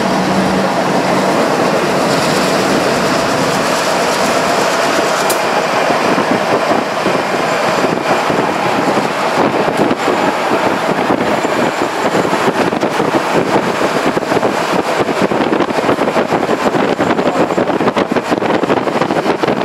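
A passenger train running, heard from on board: a steady rush of wheel and rail noise that turns choppier and more uneven from about halfway through.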